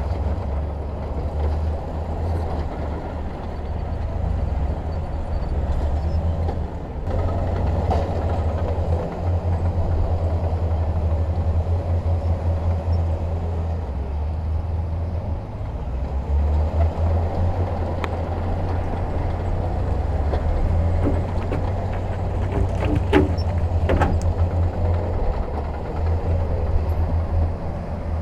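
Heavy diesel earthmoving machinery running with a steady low rumble, with a couple of sharp metallic knocks a few seconds before the end.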